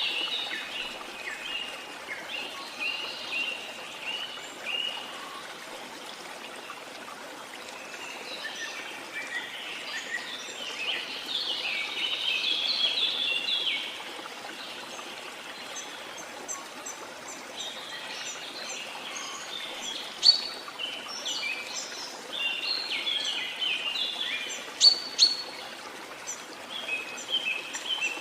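Small birds chirping and twittering in clusters over a steady wash of sea water, with a few sharp louder chirps in the second half.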